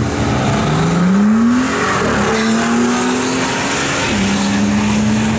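Brabus G800's twin-turbo V12 accelerating hard from a drag-race launch alongside a second car. The engine note climbs, drops back at a gear change about two seconds in, climbs again and drops at another shift about four seconds in.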